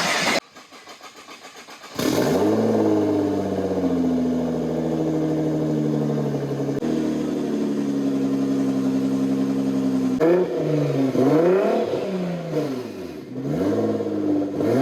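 2016 Nissan GT-R's twin-turbo V6 cranking with even pulses, then catching about two seconds in with a brief flare before settling to a steady idle. In the last few seconds the engine is revved with several throttle blips, rising and falling.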